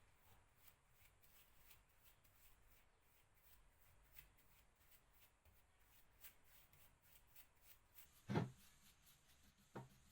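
Mostly near silence with faint scattered ticks, then a short dull knock about eight seconds in and a smaller one near the end.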